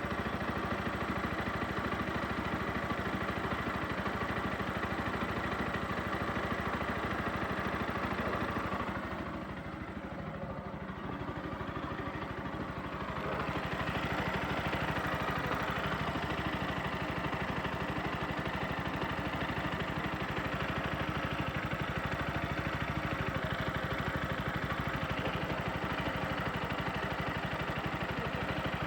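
Bajaj Pulsar NS 160 Fi's single-cylinder fuel-injected engine idling steadily at about 10,700 km, getting quieter for a few seconds about nine seconds in.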